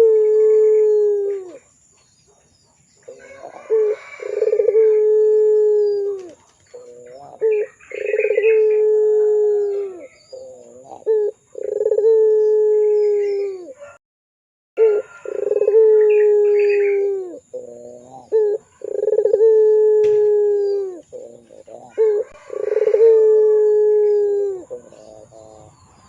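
Puter pelung, a long-cooing variety of domestic Barbary dove, cooing over and over: about seven long, low, drawn-out coos, each led in by short notes and dropping at the end, one every three to four seconds.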